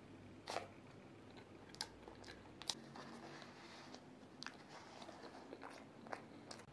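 Quiet close-up eating sounds: scattered sharp crunches and mouth clicks as a crispy puff pastry is bitten and chewed.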